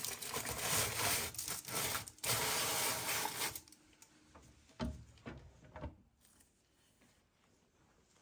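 Rough rubbing or scraping noise in short strokes for about three seconds, then it stops and a couple of light knocks follow.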